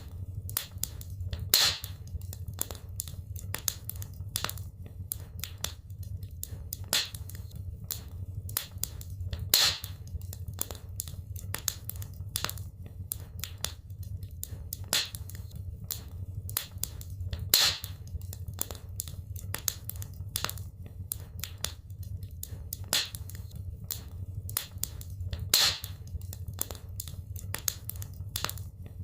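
Wood fire burning in a fireplace, crackling steadily over a low rumble. A few louder pops stand out about every eight seconds.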